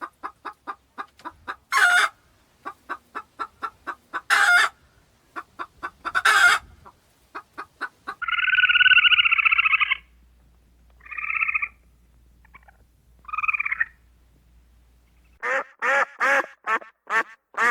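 Domestic fowl calling in a run of short animal clips. At first come short repeated calls, several a second, with a few louder calls among them. Then come a few drawn-out nasal calls, and near the end a quick regular run of duck quacks.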